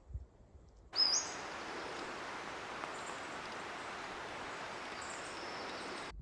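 Steady rushing water of a stream, with a short rising bird call just as it begins and faint high chirps later on.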